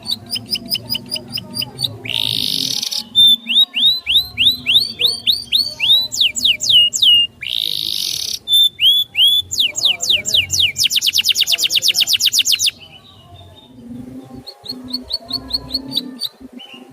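A songbird singing a loud, varied song: fast series of short chirps, runs of downward-sweeping whistles, two harsh rasping notes (about two seconds in and again just after seven seconds), and a very fast trill past the middle. The song stops about thirteen seconds in, and softer chirping returns near the end.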